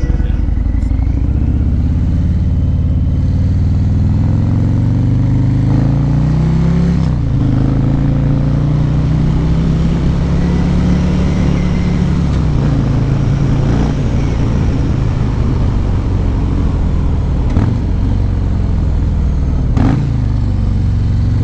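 Harley-Davidson motorcycle's V-twin engine running loudly, its pitch climbing over the first several seconds, then dropping and holding fairly steady. Two short sharp clicks come near the end.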